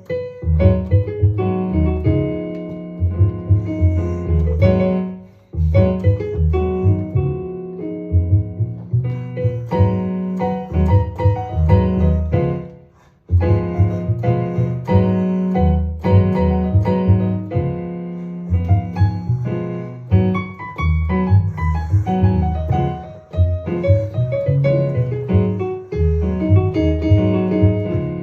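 Piano playing an improvised African blues groove, with a repeated low bass figure under chords and melody. The playing breaks off briefly twice, about five and thirteen seconds in.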